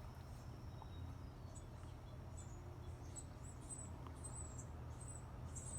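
Faint, high, thin bird chirps, short and repeated, coming more often toward the end, over a steady low rumble.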